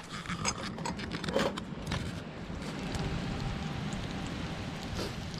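A few light clicks and knocks of utensils, then a steady hiss of rain falling on the camp from about two seconds in.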